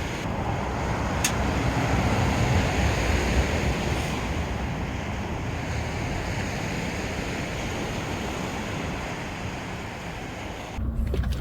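Sea waves washing onto a beach, a steady rush with wind on the microphone; it swells over the first few seconds, eases off, and cuts off abruptly near the end.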